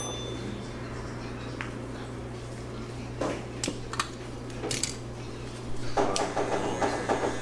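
Scattered light clicks and clatter of barber tools being handled, with a denser run of rattling clicks near the end, over a steady low hum.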